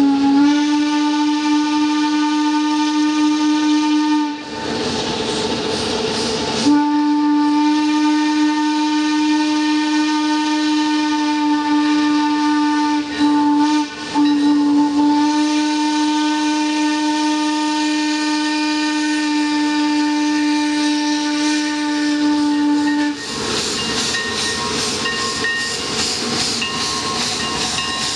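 Narrow-gauge steam locomotive's whistle: a blast of about four seconds, then after a short gap one long steady blast of about sixteen seconds with two brief breaks. Near the end the whistle stops and the locomotive's rapid exhaust chuffs and steam hiss take over as it works past.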